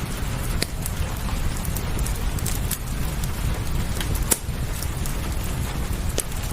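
Steady rain with a low rumble, over which a wood fire crackles in scattered sharp pops, the loudest about four seconds in.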